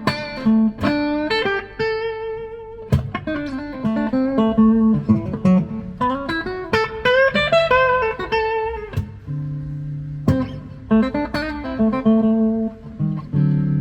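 Epiphone Emperor Swingster hollow-body archtop electric guitar being played: melodic single-note lines mixed with struck chords, ending on a ringing low chord near the end.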